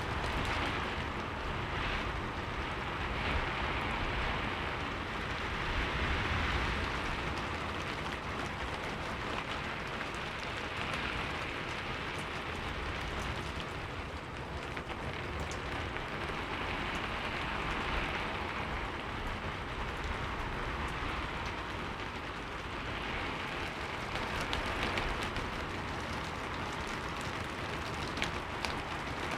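Heavy rain falling steadily, its hiss swelling and easing every few seconds, with a low rumble underneath and scattered sharper drop ticks.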